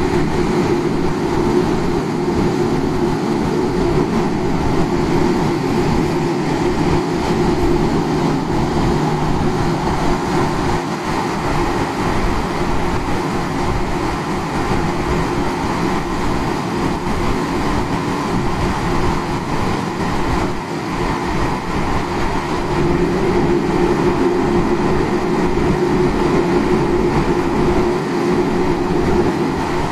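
Running sound of the Tokyo Metro 9000-series train set 9105F: steady rail noise with a hum that swells near the start and again near the end.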